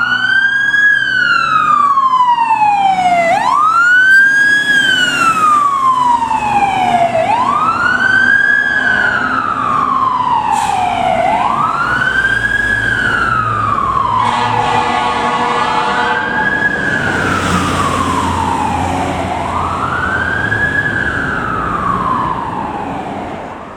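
Fire truck siren on wail, about one cycle every four seconds: each sweep rises quickly and then falls slowly. The truck's engine runs underneath.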